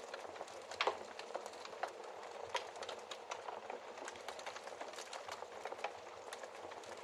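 Wood fire crackling in a fireplace: irregular snaps and pops over a steady hiss, with one louder pop about a second in.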